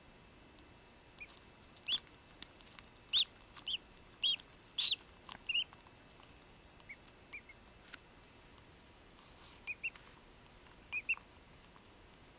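Duckling peeping while hatching from its egg: short, high chirps in small bursts, with a few faint clicks between them.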